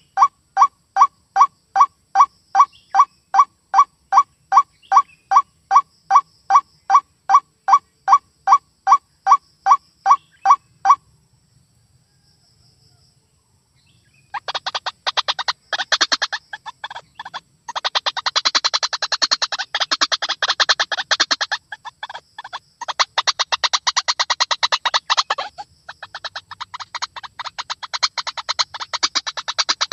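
White-breasted waterhen calling. It starts with a monotonous run of evenly repeated calls, about two and a half a second, which stops about 11 seconds in. After a pause of about three seconds comes a loud, fast, harsh chattering chorus in long bouts with short breaks.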